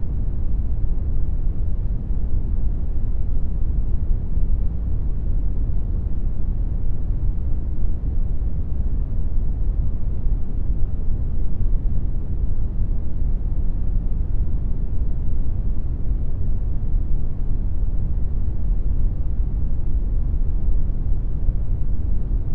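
Synthetic brown noise made in Audacity: a steady, deep hiss that is strongest in the bass and thins out toward the treble, with no changes.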